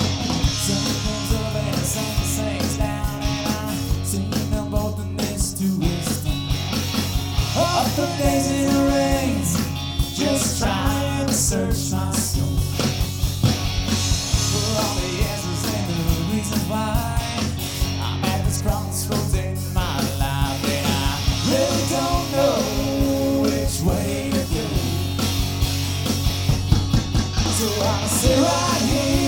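Live rock band playing: electric guitars, bass and drums with a steady beat, and a lead melody line that bends up and down over the top.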